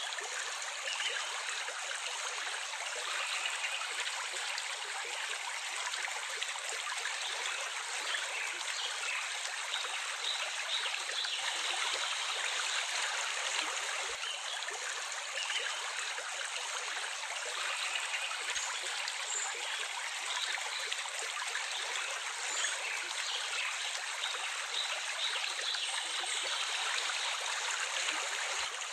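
Water running steadily in a stream, a continuous trickling and rushing with no low rumble.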